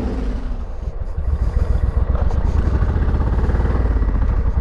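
1997 Suzuki Intruder VS1400's V-twin engine at low revs, a deep pulsing exhaust beat, with the revs dropping in the first half second as the bike slows.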